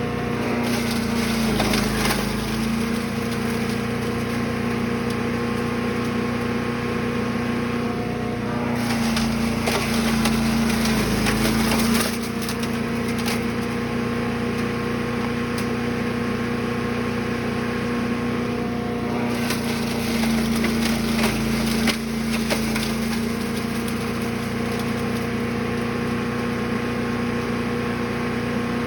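Brush Master 3-in-1 chipper/shredder engine running steadily at speed, with three bouts of wood being chipped and crunched through it, about a second in, a third of the way through and about two-thirds through. The engine note sags slightly as it takes the load of each feed.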